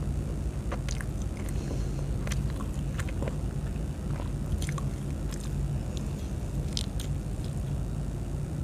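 A person biting and chewing food close to the microphone, with scattered short crunchy clicks and wet mouth sounds, over a steady low hum.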